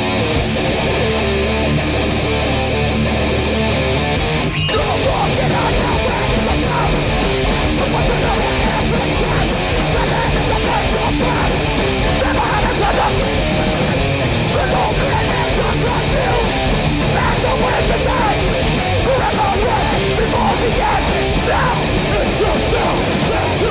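Hardcore punk band playing live, with distorted electric guitars, bass and drums, without vocals. There is a momentary gap about four and a half seconds in, and the full band plays on after it.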